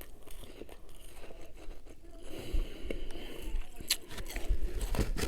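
Close-up crunching and chewing of refrozen freezer frost, with crisp crackles and scraping and a couple of louder crunches in the second half.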